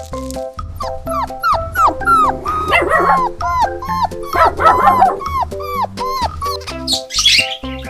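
Dog yipping in a quick run of short yelps that fall in pitch, about two a second, over background music.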